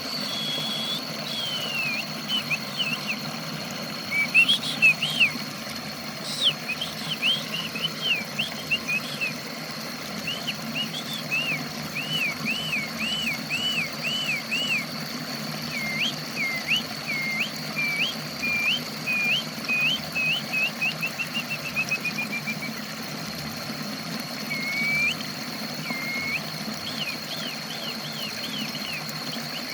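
Songbird singing runs of short, clear whistled notes, quick rising-and-falling phrases with a short descending trill in the middle, over a steady low hum and a constant high-pitched tone.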